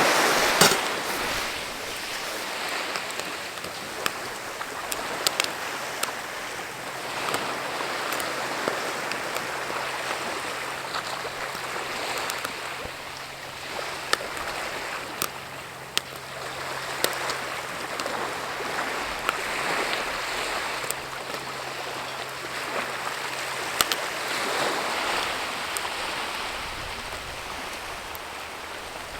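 Wood campfire crackling: sharp pops scattered about once a second over a steady rushing hiss.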